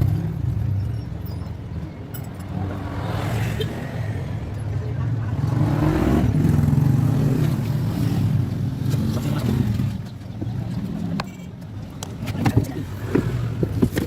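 A motor running with a low, continuous hum that swells and fades over several seconds, with a few sharp knocks near the end.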